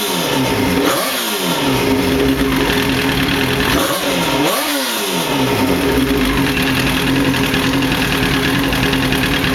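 Yamaha R1 sport bike's inline-four engine blipped twice, once about a second in and again around four and a half seconds in, the revs rising and dropping back each time before it settles to a steady idle.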